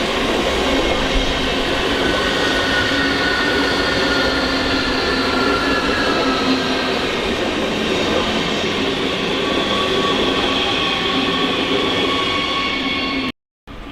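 A train running through a station, loud and steady, with several high whining tones held over the rolling noise. The sound cuts off abruptly near the end.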